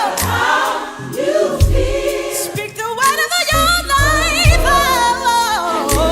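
Gospel choir singing over music with a bass beat; sustained voices with vibrato.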